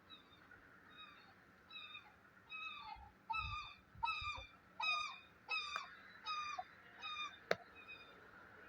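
A bird honking repeatedly, about a dozen calls a little over half a second apart, growing louder toward the middle and then fading. A single sharp click sounds near the end.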